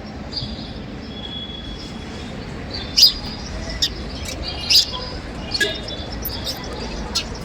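Small birds chirping in short, sharp, high calls, scattered every second or so from about three seconds in, over a steady low background noise.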